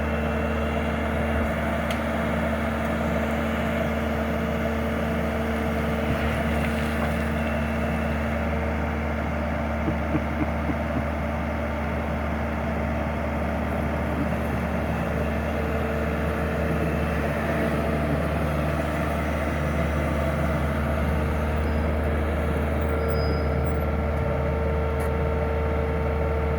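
Skid steer loader's engine running at a steady speed, an even drone, with a few light clicks about ten seconds in.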